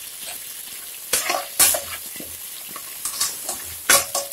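Onions and tomato sizzling in ghee and oil in a metal pressure cooker, with a metal slotted spatula stirring and scraping against the pot; the scrapes and knocks stand out about a second in, a second and a half in, and near the end.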